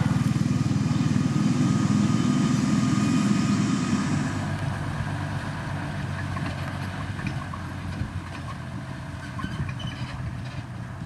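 Motor grader's heavy diesel engine running steadily. It is loud for the first four seconds or so, then drops to a lower, quieter drone.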